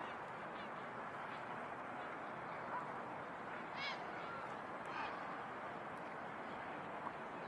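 A few short, harsh bird calls, the clearest about four seconds in, over a steady outdoor background hum.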